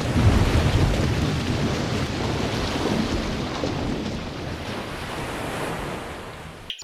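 Thunderstorm: steady rain with a roll of thunder, loudest at the start and slowly fading, cut off abruptly near the end.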